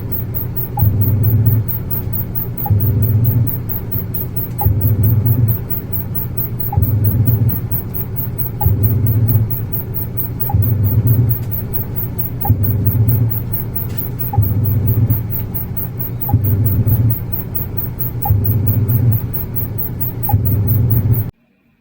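Iris Ohyama IAW-T606-B top-loading washing machine agitating: the pulsator motor hums in regular bursts of about a second, roughly every two seconds, each with a small click at its start, as the wash action alternates. The sound cuts off suddenly near the end.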